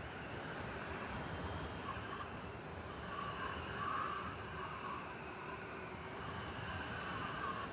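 Steady rushing noise of a blizzard's wind, swelling slightly about four seconds in.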